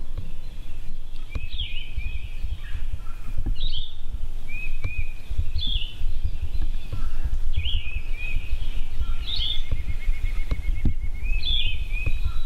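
A songbird singing the same short phrase over and over, about once every two seconds, each phrase a few quick notes ending in an upward sweep, with a brief trill near the end. Under it runs a strong low, uneven rumble of outdoor noise.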